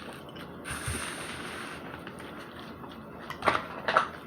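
Close-up eating sounds while chewing a spicy chicken nugget: a short hiss about a second in, then two or three sharp smacks near the end.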